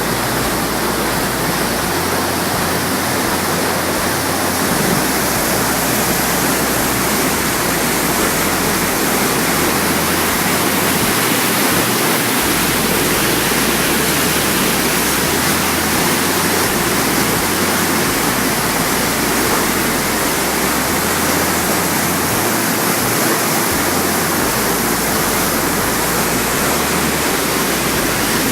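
A river's water rushing steadily, a loud even noise that does not change throughout.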